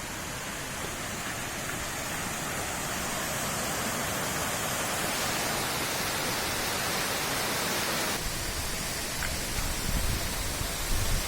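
Steady rushing of a waterfall, growing slowly louder, with a low rumble joining in for the last few seconds.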